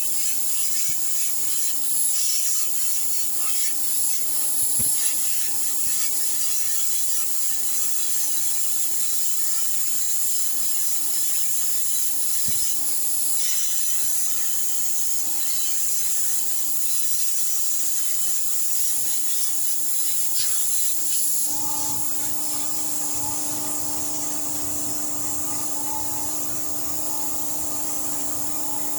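Wood fire crackling and hissing, with a rapid scatter of small pops. A steady low hum joins about two-thirds of the way through.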